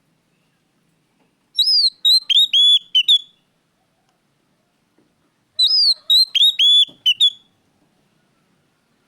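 Oriental magpie-robin song: two identical loud phrases of clear whistled notes with quick downward sweeps and hooked glides, about four seconds apart.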